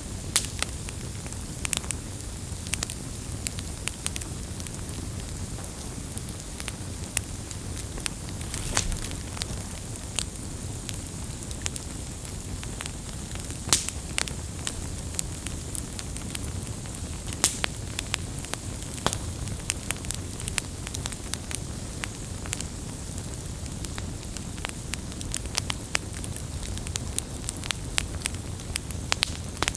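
Wood campfire burning, a steady low rumble of flame with frequent irregular sharp crackles and pops.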